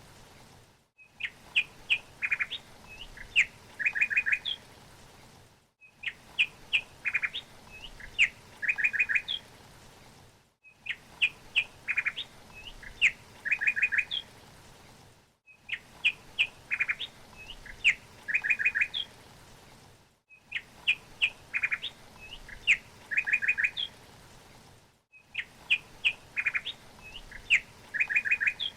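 Songbird chirping in a short recording looped about every five seconds: the same run of sharp chirps and quick trills repeats identically six times, with a brief drop-out between repeats, over a faint steady hiss.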